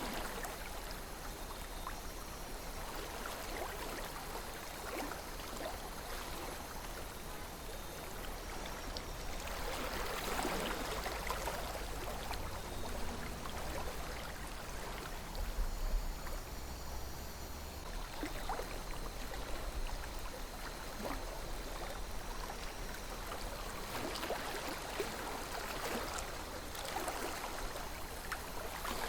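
River water flowing in a steady, even rush with small splashes and babbles, swelling louder about a third of the way in and again near the end. A brief low rumble comes about halfway through.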